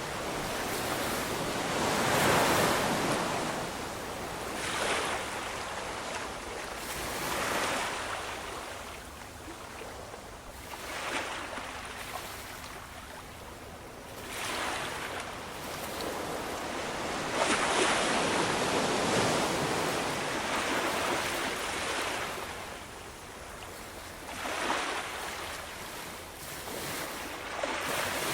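Ocean waves breaking and washing on the shore: a rushing surf hiss that swells and ebbs every few seconds, with bigger breakers about two seconds in and again around the middle.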